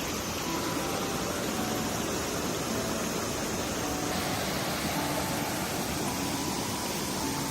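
Steady rushing noise with no rhythm or change, under faint background music whose short notes step up and down.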